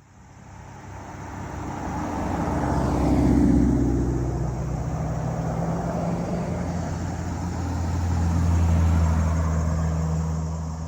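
Cars driving past on the roadway, their engine sound swelling twice: one passing about three seconds in, a second with a deeper, heavier engine note building near the end and then fading.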